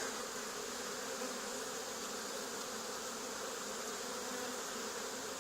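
Steady buzzing hum of a honey bee swarm close by, many bees flying and crawling as they move into a box.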